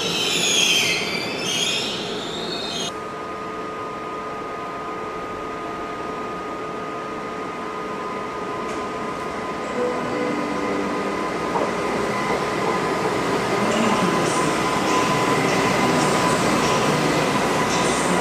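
Train wheels squealing in a screech that glides up and down, cut off suddenly about three seconds in. Then a Koleje Małopolskie electric multiple unit draws along the platform, with a steady electric whine and a rumble that grow louder as it comes past.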